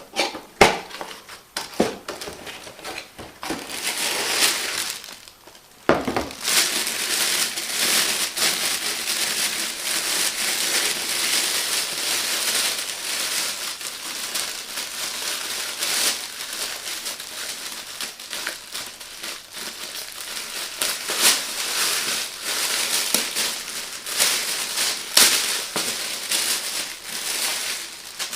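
Packaging being handled and unwrapped, crinkling and crackling continuously with many small clicks, after a few separate knocks and a brief pause in the first seconds.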